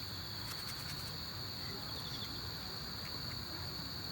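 Autumn insects, likely crickets, chirring in a steady high-pitched drone, with a few faint ticks about half a second in.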